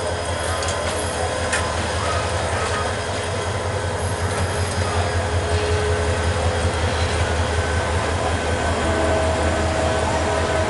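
Diesel locomotive running as it pulls a passenger train slowly past, a steady low engine rumble over the noise of the coaches rolling on the rails, growing a little louder.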